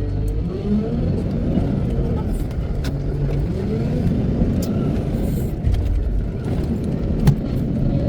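Wheel loader's diesel engine working under load, its revs rising and falling, with scattered clicks and a sharper knock near the end.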